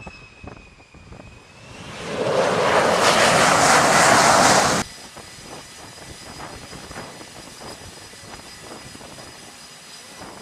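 Jet engine noise: a high steady whine, then a loud rush that builds over about a second, holds for about three seconds and cuts off abruptly, leaving a quieter steady jet whine.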